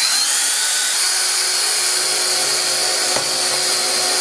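An 18-volt drill running steadily at full speed, its bit grinding into the middle of an iPhone 6.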